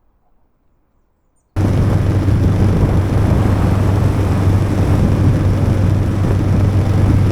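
About a second and a half of near silence, then motorcycle riding noise cuts in abruptly: loud, steady wind rush over the microphone with a low, even engine drone underneath.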